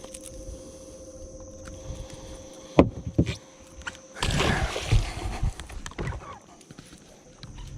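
Knocks and thumps on a fishing boat: two sharp knocks a little under three seconds in, then a louder rush of noise with thumps lasting about a second and a half. A faint steady hum stops about four seconds in.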